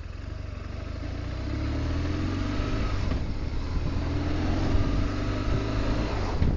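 Motor vehicle engine running and speeding up, a low rumble with rising engine notes that grows louder over the few seconds.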